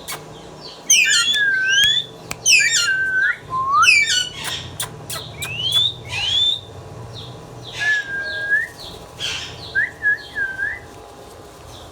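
Ringneck parrot whistling and calling: a string of separate rising, falling and hooked whistled notes mixed with short harsh chirps and a few sharp clicks, busiest in the first half and thinning toward the end.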